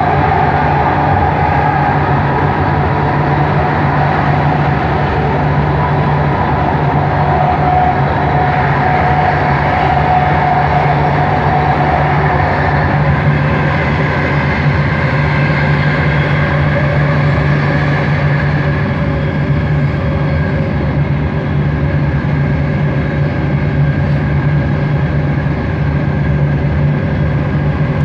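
Cabin running noise of a Bombardier Innovia ART 200 train in motion: a steady low hum with motor whine tones over it. A mid-pitched whine fades out about halfway through, while higher tones carry on.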